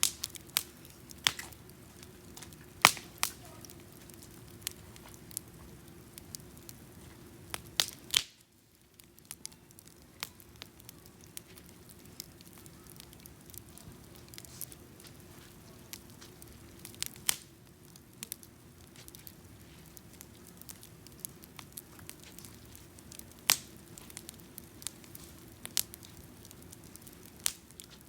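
Wood campfire burning, crackling with sharp irregular pops over a low steady hiss.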